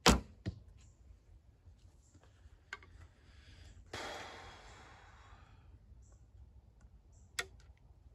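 Handling sounds at a workbench: a sharp knock, a second lighter knock, scattered clicks, and about a second and a half of scraping hiss that fades out.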